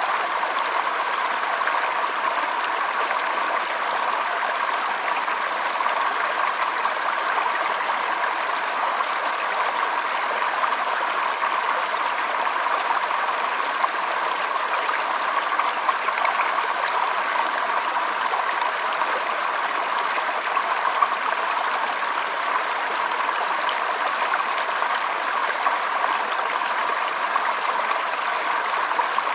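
Shallow stream flowing and trickling steadily over stones, a continuous even babble of water.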